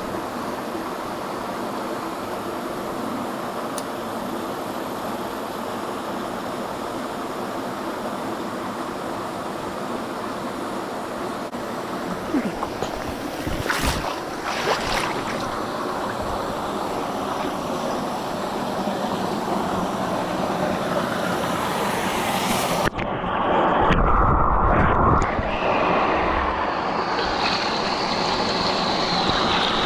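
Steady rush of mountain-stream water. A few knocks come near the middle. About two-thirds of the way through the sound changes abruptly: the high hiss drops away and a louder, deeper rumble takes over, like wind on the microphone.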